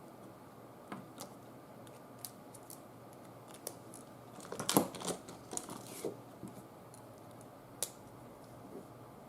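Paper and craft tools being handled: a scatter of light clicks and rustles, with a louder cluster about halfway through and a single click near the end.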